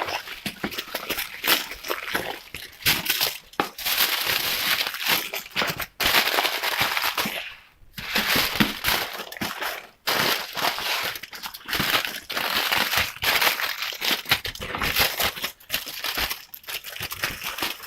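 Plastic food packaging crinkling and rustling as items are handled, with a few brief breaks.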